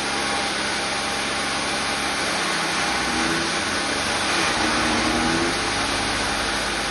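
Chaff cutter machine running steadily at speed, a loud, even machine noise; it cuts off suddenly at the end.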